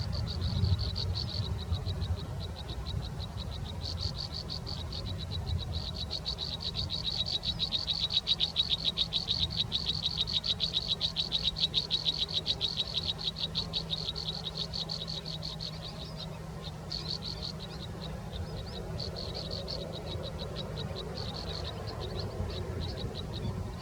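Rapid, high-pitched pulsed trilling from a calling frog or insect, in bouts of a second or two with one long unbroken stretch of several seconds in the middle, over a faint steady low hum.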